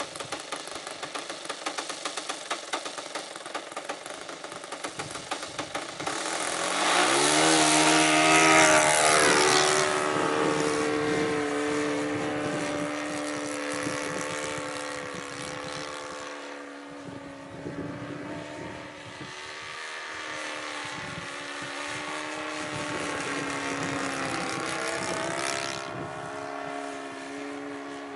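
Saito 82 four-stroke glow engine of a Yak 55M radio-controlled model aeroplane, first idling with a pulsing beat, then throttled up about six seconds in, its pitch climbing steeply to full power. It then runs at high power with its pitch wavering as the plane flies, easing off to a lower setting near the end.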